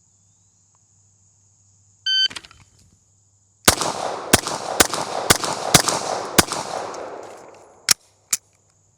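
Shot-timer start beep, then about a second and a half later six gunshots in quick succession, about half a second apart: a bill drill fired in 4.32 seconds. Echo trails off after the last shot, and two short clicks follow near the end.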